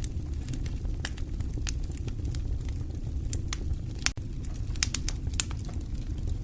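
Fire crackling: irregular sharp pops and snaps over a steady low rumble, with a quick flurry of pops about five seconds in.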